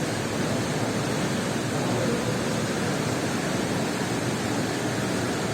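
Steady rushing of falling water, an even noise with no breaks or changes.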